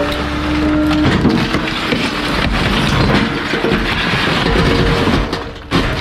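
Garbage truck compactor crushing bulky waste: dense cracking and crunching over the steady hum of the truck's machinery, which sounds as a plain tone in the first second. Near the end the crushing dips briefly, then comes back with a sudden crack.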